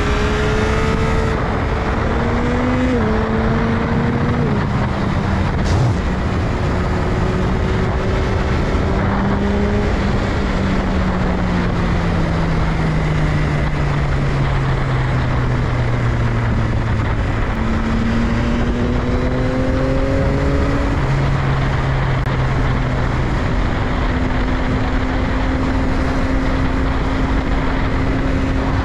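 Yamaha XSR900's three-cylinder engine running under way. Its pitch rises and drops at gear changes, falls steadily for several seconds as the bike slows, then climbs again and holds steady near the end. Heavy wind noise on the microphone runs underneath.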